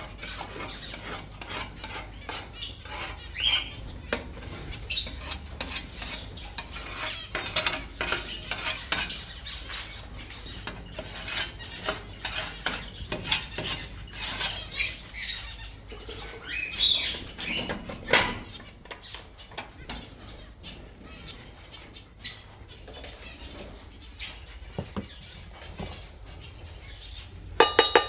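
Small aviary birds chirping and fluttering, mixed with irregular clinks and rattles of feed dishes and seed being handled.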